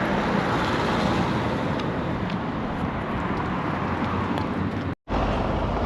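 Steady noise of road traffic passing on a town street, with a brief dropout about five seconds in where the recording cuts.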